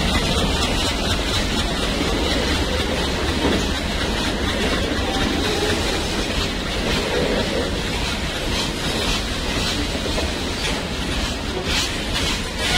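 Wagons of a coal goods train rolling past, a steady rumble with the wheels clattering over the rail joints. Sharper clicks stand out in the last few seconds.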